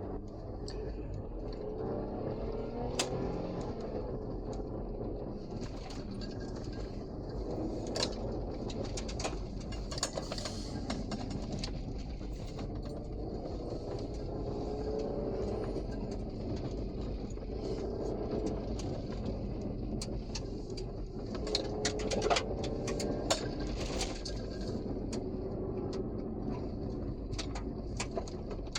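2006 Toyota Highlander 4WD being driven hard: the engine's hum rises and falls as it revs, over steady tyre and road noise, with frequent short knocks and clatters from the rough ride and a cluster of louder knocks about three quarters of the way through.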